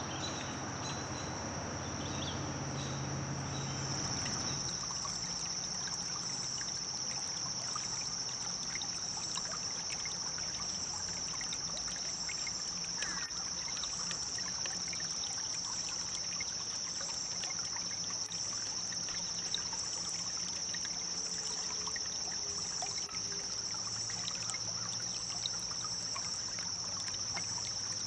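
Shallow river water flowing and trickling over gravel, with a steady high-pitched drone over it. Music underneath ends about four seconds in.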